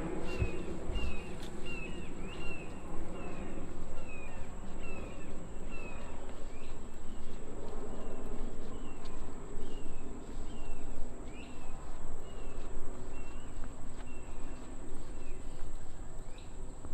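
Insect whine at a steady high pitch, under a short high chirp repeated over and over, about two a second at first and more slowly later, with a low rumble beneath.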